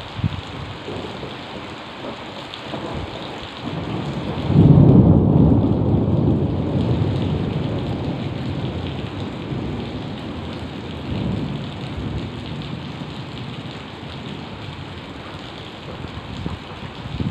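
Heavy rain falling steadily, with a thunderclap about four and a half seconds in whose low rumble peaks at once and then slowly fades over several seconds.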